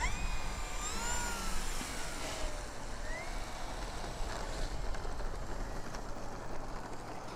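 Wind rumbling over the microphone, with the faint whine of an RC plane's electric motor and propeller rising and falling in pitch as the throttle changes.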